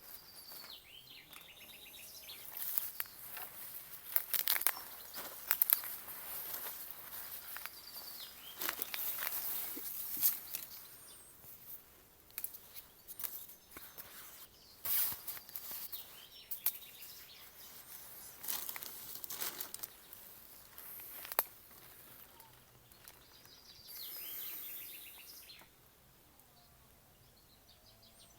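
Irregular rustling and crunching in dry ground cover, like steps or hands working through it, with birds chirping in the background.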